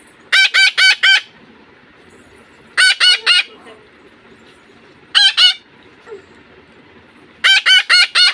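A pet parrot giving harsh, loud squawks in four quick bursts of two to four notes each.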